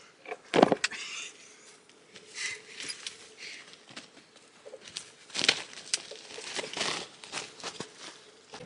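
Irregular rustling and crinkling handling noises with scattered clicks, the sharpest about half a second in and another near the middle.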